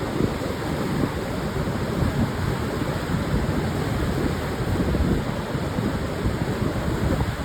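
Pacific surf on a sandy beach: a steady wash of breaking waves mixed with wind buffeting the microphone, heavy in the low end with no single wave standing out.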